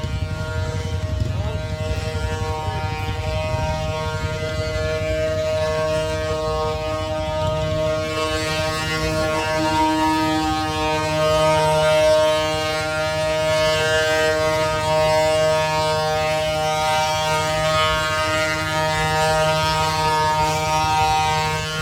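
Ox cart singing: the wooden axle turning in its wooden bearing blocks gives a continuous high, droning whine made of several tones layered together, over a low rumble of the cart rolling. It swells a little about halfway through.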